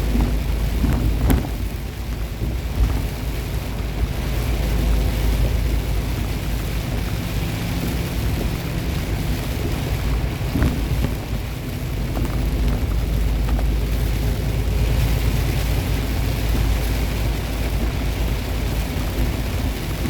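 Semi truck cab while driving: the engine is a steady low drone, with road noise and rain hiss over it. A few faint clicks come through, around a second in and again near the middle.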